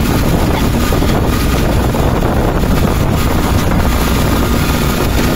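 Motorcycle engine of a tricycle running steadily at cruising speed, heard from inside the sidecar along with road noise and wind on the microphone.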